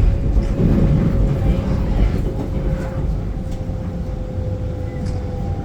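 SMRT R151 metro train running between stations, heard from inside the car: a steady rumble of wheels on track under a held whine from the traction motors that falls slightly in pitch.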